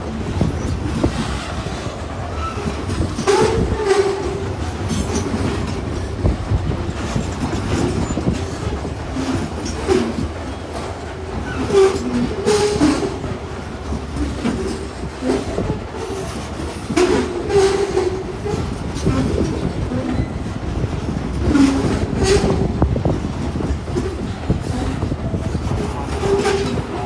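Loaded freight train rolling past at close range: a steady low rumble of the wagons, with irregular sharp clacks as the wheels cross rail joints and short squeaks.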